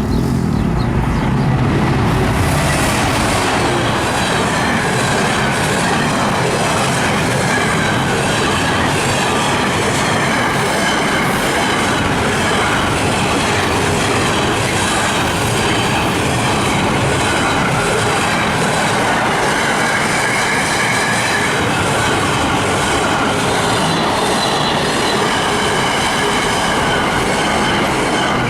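A train passing close by: a steady rail rumble with the wheels clicking over the rail joints at an even beat, and a faint wavering wheel squeal.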